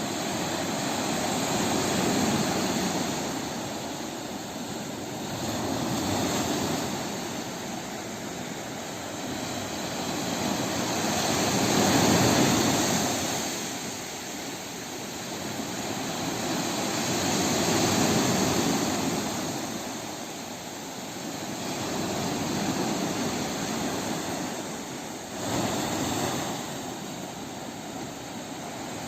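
Sea waves rolling in and washing out, a continuous surf roar that swells and recedes every four to six seconds.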